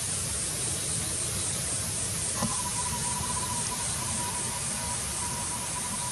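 Steady outdoor background hiss: a high-pitched insect drone on top and a low rumble of wind on the microphone underneath. About two and a half seconds in, a thin steady whistle-like tone starts after a small click and holds.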